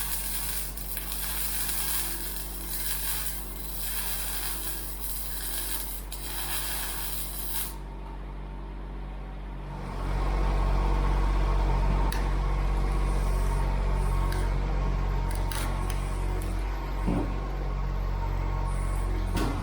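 Welder crackling and sizzling while tacking steel on the broom frame, with many short snaps, for about eight seconds. About ten seconds in, a louder steady low hum takes over.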